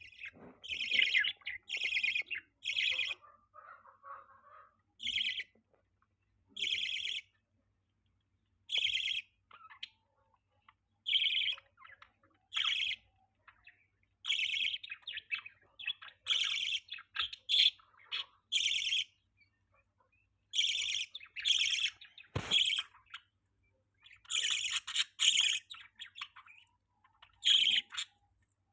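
Budgerigars chirping: short, buzzy calls of about half a second each, coming in irregular bursts with brief silent gaps between them. A single low thump sounds once, about two thirds of the way through.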